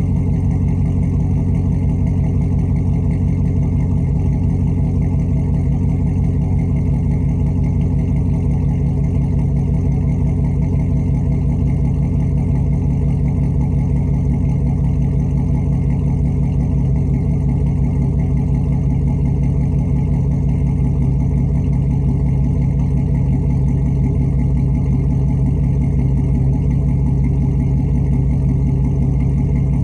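Stock GM LS 6.0-litre V8 idling steadily after a cold start, with an even, unchanging low pitch and no revving.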